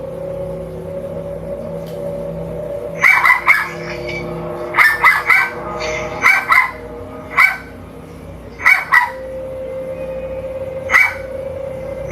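Dogs barking in short bursts of one to three barks, starting about three seconds in, heard through a Ring doorbell camera's microphone.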